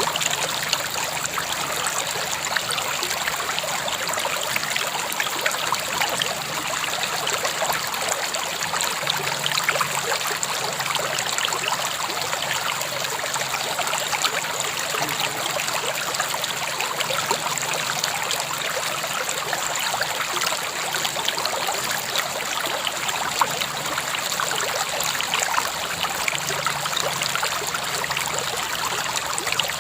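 A river flowing: a steady, unbroken rush of moving water.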